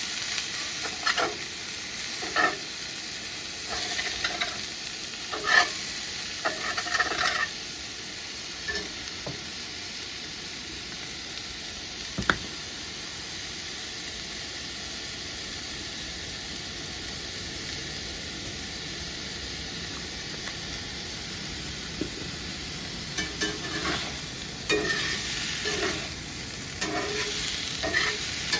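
Rustling and clicking of things being handled, in clusters near the start and again near the end, over a steady hiss.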